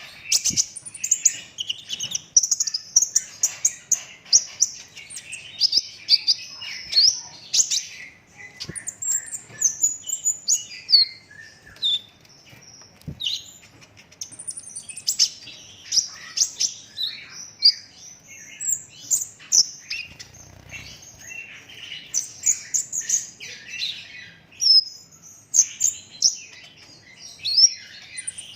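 Olive-backed sunbird singing non-stop: rapid, tightly packed high-pitched chirps and rolling trills.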